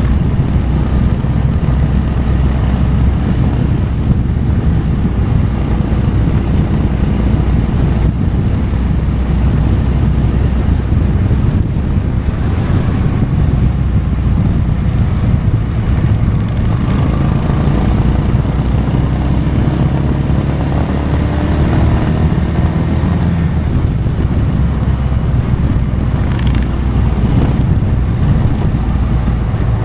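Motorcycle engine running under way, with wind on the microphone. Past the middle the engine note climbs for a few seconds as the bike accelerates.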